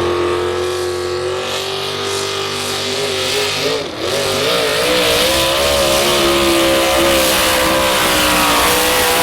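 Modified 4x4 pulling truck's engine running at full throttle under heavy load during a pull. Its pitch wobbles briefly about four seconds in, then it runs louder and steady.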